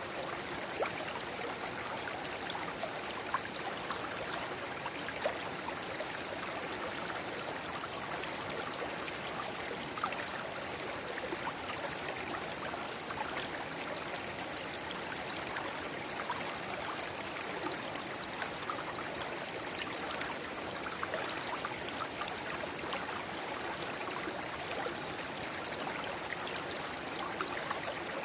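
A shallow river babbling steadily, with a small spring-fed brook pouring into it. There is a continuous rush of water dotted with small splashes and droplet ticks.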